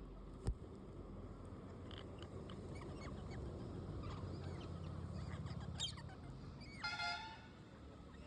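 Pet parrots calling: faint short chirps, then one loud, nasal, horn-like squawk about seven seconds in. A single sharp click comes about half a second in.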